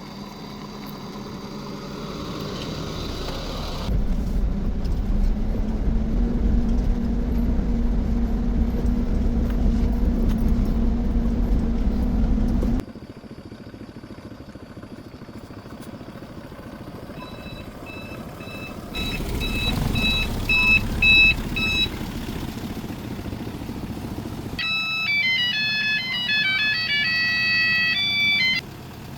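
A motor vehicle engine running with a steady low drone for several seconds, followed later by short, high electronic beeping tunes.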